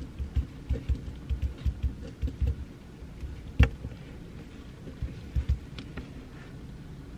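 Pencil writing on paper at a desk: irregular soft taps and knocks with faint scratching, and one sharp click about three and a half seconds in.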